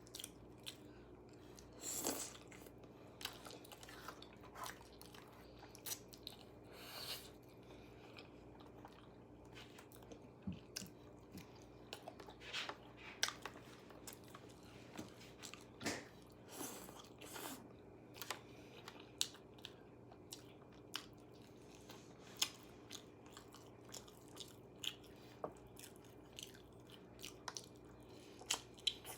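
Close-miked chewing and biting of crisp food, with irregular crunches and a few longer bursts of crunching.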